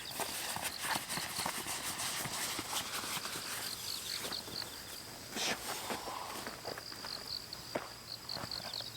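Irregular clicks, knocks and rustling of camping gear being handled and packed up. Two short runs of rapid high chirping from an insect come in behind it, around four and eight seconds in.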